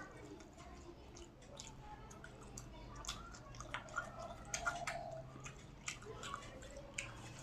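Close-up eating sounds: wet chewing with many small, sharp mouth clicks and smacks.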